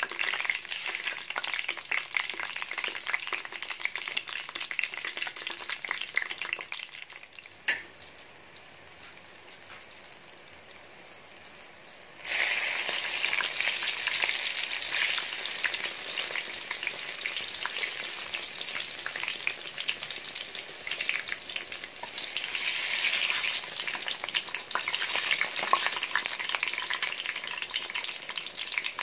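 Eggplant slices frying in hot oil in a wok, a steady crackling sizzle. It dies down for a few seconds in the middle, then turns suddenly louder again and stays loud.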